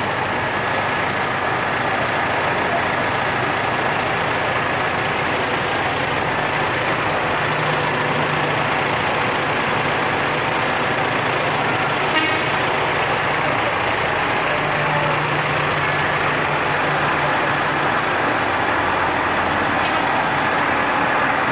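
Tractors driving past in a parade, their diesel engines running in a steady mix, with a low engine hum swelling as individual tractors pass. A single short knock sounds about halfway through.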